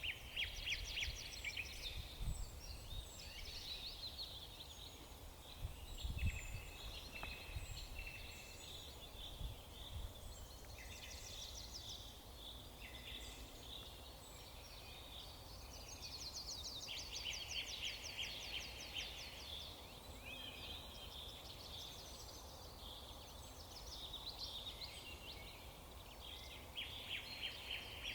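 Several songbirds singing and chirping, with many overlapping high-pitched calls and fast trills, over a steady low background rumble.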